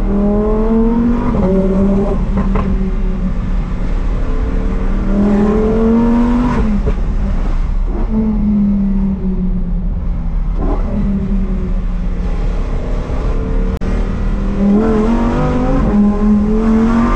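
Lamborghini Huracán STO's naturally aspirated 5.2-litre V10 accelerating through the gears: the engine note climbs in pitch several times and drops back at each gear change, with sharp cracks at some of the shifts.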